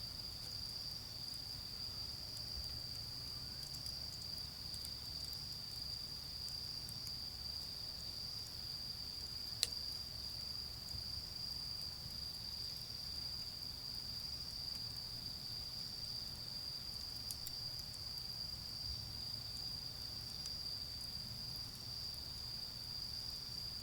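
Autumn insects singing in a steady, continuous high-pitched chorus, over a faint low rumble of distant road traffic. A single sharp pop from the charcoal fire about ten seconds in, with a few faint crackles.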